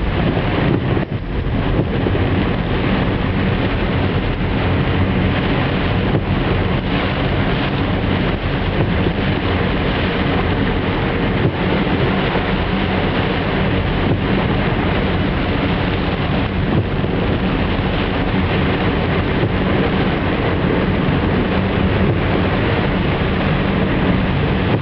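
A car driving through heavy rain on flooded streets: a steady engine hum under the constant hiss of rain and tyres in standing water.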